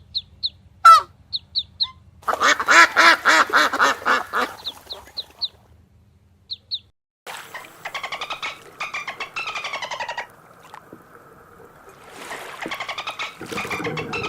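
Birds calling: short high chirps, then a run of loud, pitched honking calls about two seconds in, and later bursts of rapid, repeated calls.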